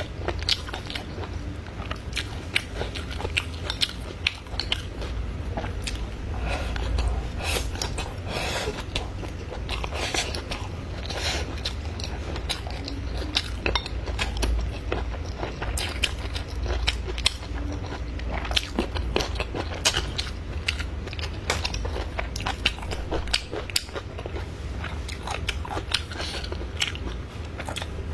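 Close-miked chewing and biting of food, with many irregular moist clicks and crunches, over a steady low hum.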